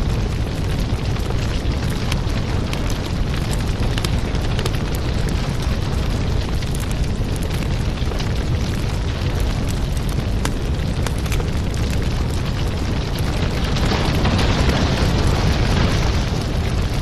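Wood fire crackling in a fireplace: a steady low rumble and hiss of burning with frequent sharp pops and snaps, swelling a little louder near the end.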